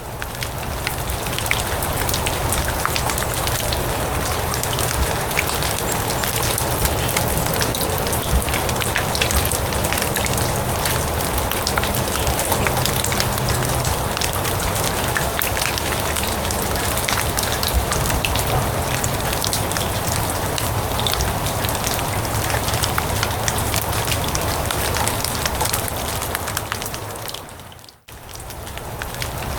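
Steady rain falling on grass, a dense hiss with many small drop ticks. Near the end it fades out for a moment and comes straight back in.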